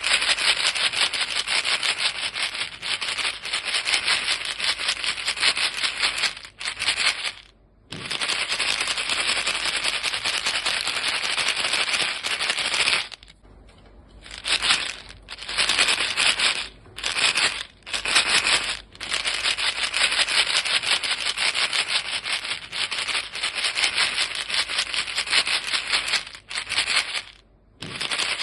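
A box of chewing gum pellets shaken fast and steadily, the pellets rattling hard against the box, broken by several brief pauses.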